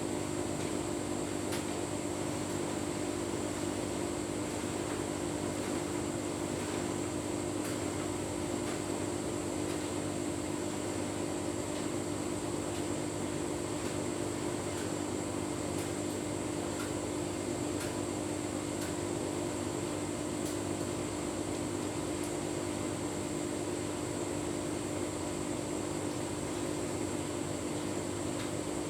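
Tumble dryer running with a full load of bedding: a steady motor and drum hum, with a faint tick now and then.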